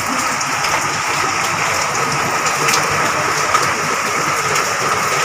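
Rain falling steadily in a downpour, a continuous even hiss with scattered small drips and splashes on wet paving.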